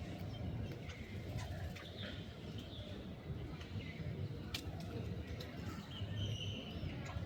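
Wild birds calling, with short chirps scattered through, over a steady low rumble. There is a sharp click about four and a half seconds in.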